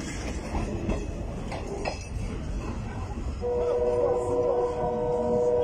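Passenger train rolling away along the track with a low rumble and scattered clicks from its wheels. About three and a half seconds in, its horn sounds: a steady chord of several tones, held and louder than the rumble.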